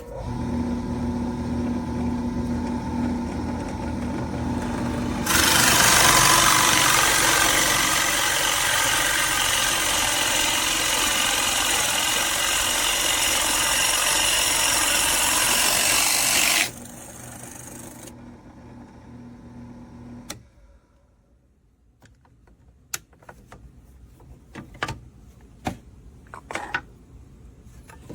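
Power drill spinning a 2-inch Forstner bit, then boring into wood for about eleven seconds with a loud, steady cutting noise. The drill spins free again for a few seconds, then its motor stops, followed by a few clicks and knocks of handling.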